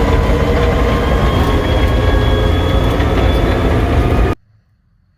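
Caterpillar D6D crawler dozer's six-cylinder diesel running under load, with rapid knocks from its steel tracks and a thin high whine over the engine. The sound cuts off suddenly about four seconds in.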